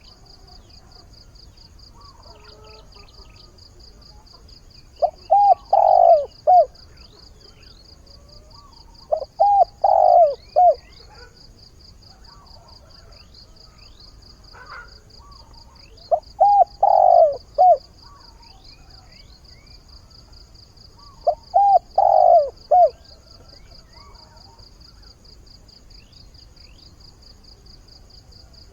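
Decoy spotted dove cooing: four short phrases of several notes each, spaced about five seconds apart, over a steady high pulsing trill and faint twittering of small birds.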